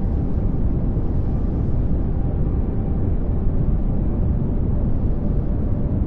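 Steady pink noise: an even, unchanging rushing hiss, heaviest in the low end.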